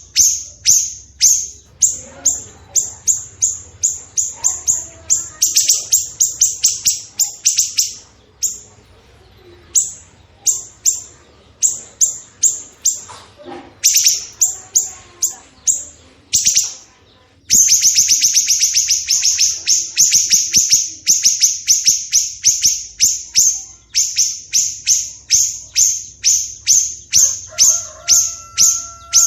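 Songbird song, played as a training track for cage birds: a long rapid-fire run of sharp, high, downward-sweeping notes, about three to five a second, broken by short pauses. Fainter lower warbling notes sit under it, and a short steady whistle comes near the end.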